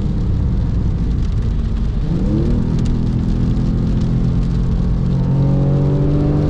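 Porsche 996 Carrera's 3.6-litre flat-six with a valved sport exhaust, heard from inside the cabin under load. About two seconds in its pitch jumps briefly, then climbs steadily as the car accelerates, over a hiss of spray from the wet track.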